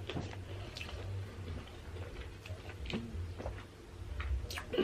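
A person eating quietly: a few sparse, soft mouth clicks while chewing, over a low steady hum.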